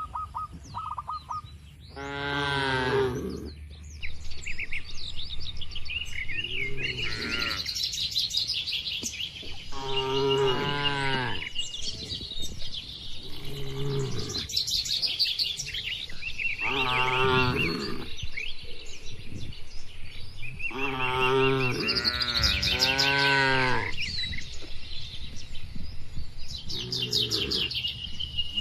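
Cattle mooing again and again, about eight separate moos, some short and some drawn out, with two close together near the middle. Birds chirp steadily behind them.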